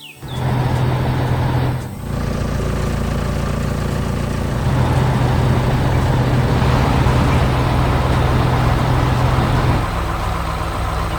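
Heavy construction machine's engine running steadily with a low drone and a rough mechanical noise over it, starting abruptly and dipping briefly about two seconds in.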